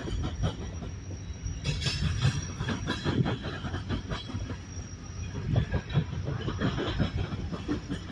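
Great Lakes Central freight train's cars rolling past, wheels clacking irregularly over rail joints above a steady low rumble.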